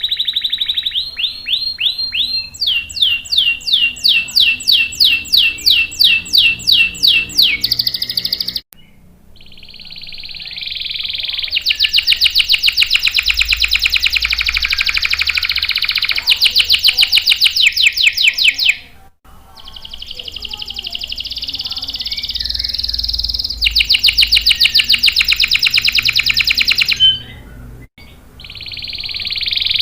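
Domestic canary singing loudly in long rolling trills, alternating with slower runs of repeated notes at about three a second. The song breaks off abruptly three times for a moment.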